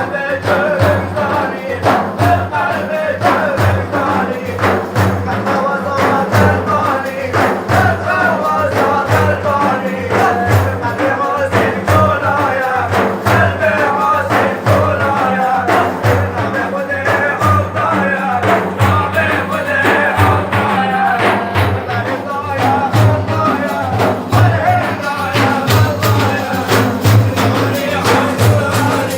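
Religious praise singing (madih): a voice chanting a wavering melody over a steady, fast beat of frame drums.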